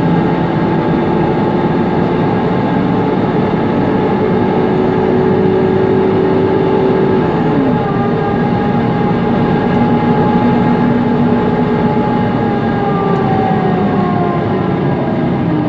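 Inside a Mercedes-Benz Conecto NG T city bus under way: its OM936G CNG engine and loud engine cooling fan run steadily over road noise. The engine's pitch drops sharply about eight seconds in, and higher tones slide down near the end.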